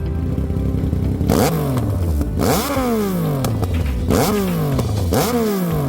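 Yamaha XSR900/MT-09 inline three-cylinder engine through an aftermarket full exhaust, revved in quick throttle blips about once a second: five times the pitch shoots up and then falls back as the revs drop.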